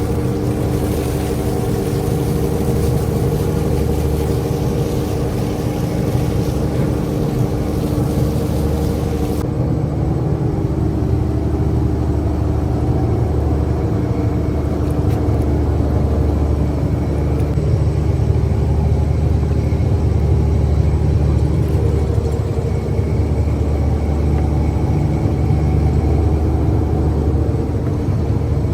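Fishing boat's engine running steadily with a low drone.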